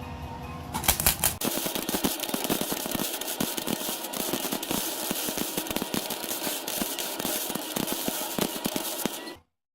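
Welding arc crackling steadily as a bead is laid to fill a gap in a steel exhaust pipe. It starts about a second in with a few sharp cracks and cuts off abruptly near the end.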